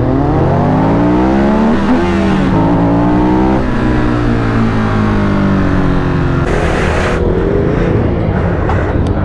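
A car engine revving hard, its pitch climbing twice with a brief dip between, then sliding down as it eases off. A short burst of hiss comes about seven seconds in.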